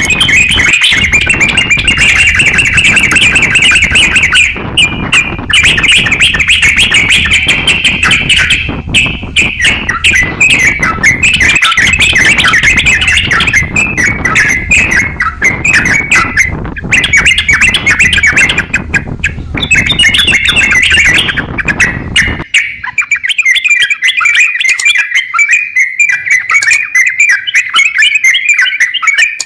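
A crokcokan songbird singing nonstop in a rapid, chattering stream of notes. A low background rumble underneath stops abruptly about 22 seconds in, leaving the song alone.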